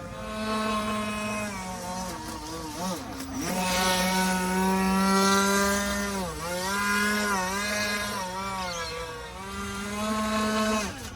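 Radio-controlled model boat motor running at speed, a buzzing tone that holds steady and then drops and picks up again several times as the throttle is eased and opened.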